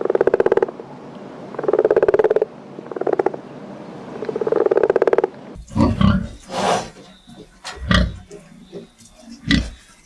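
A farm animal calling four times in rough, pulsing calls of under a second each, then a switch to a different animal's short low grunts mixed with scattered knocks and clicks.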